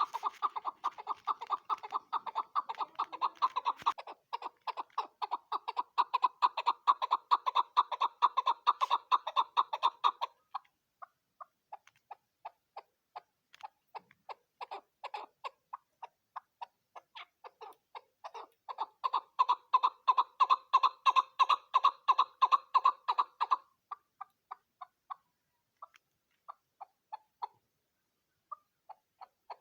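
Chukar partridge calling in rapid runs of short repeated notes, in two long, loud bouts with sparser, quieter notes between and after them.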